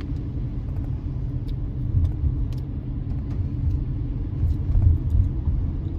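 A car being driven: steady low engine and road rumble.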